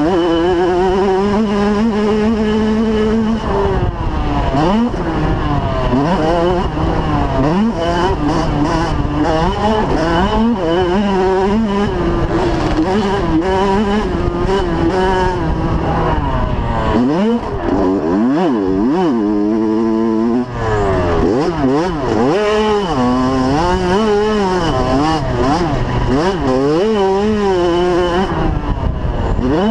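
85cc two-stroke motocross bikes racing, engines revving up and dropping back over and over as they accelerate and shift, several at once with their pitches crossing; one engine holds a steady pitch for the first few seconds.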